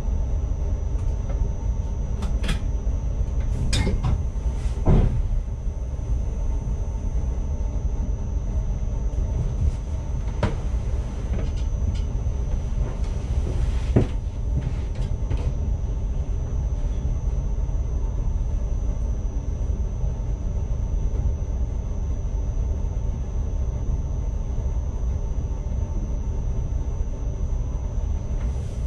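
ICMm electric multiple unit running at speed, heard from the driver's cab: a steady low rumble of wheels on track with a faint steady high whine. A few sharp knocks and clicks come in the first half, the loudest about 14 seconds in.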